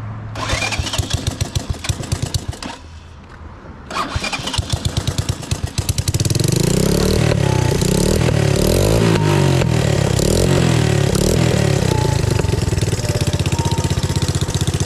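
Single-cylinder Honda 200ES engine on a custom three-wheeler, fitted with a new aftermarket exhaust, being started. A first attempt about half a second in fades out, a second attempt begins about four seconds in, and from about six seconds on it runs steadily with rapid, even firing pulses.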